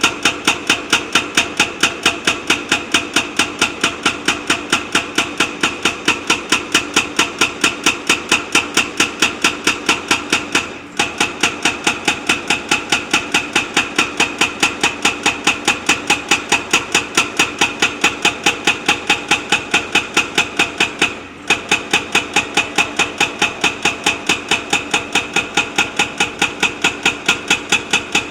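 Rapid, even hammering, about four blows a second, over a running engine, stopping briefly twice before starting again.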